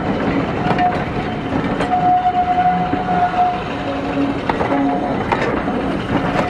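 Passenger coaches rolling past on the rails, wheels clicking over rail joints, with a steady whine that comes and goes.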